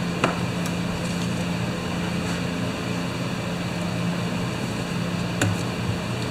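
Steady low hum of a fan-like machine running, with two light clicks, one about a quarter second in and one near the end, as small carburetor parts (gasket and diaphragm) are handled and fitted.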